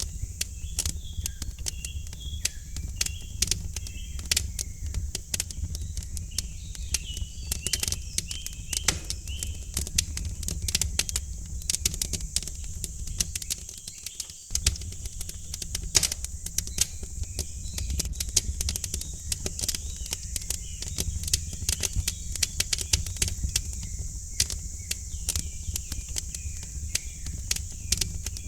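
Wood fire crackling in a fireplace: dense, irregular pops and snaps over a steady low rumble. Small birds chirp faintly at times, in the first few seconds and again in the latter half.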